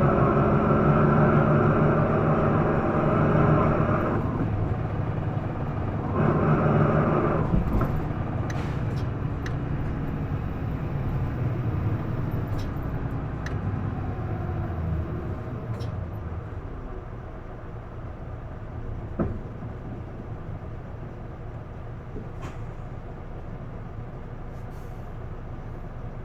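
Onboard sound of an Isuzu Erga PDG-LV234L2 city bus's diesel engine running hard at high revs. It eases off about four seconds in, pulls hard again briefly, then falls away to a lower, quieter running sound. A few light clicks and one short sharp sound come in the second half.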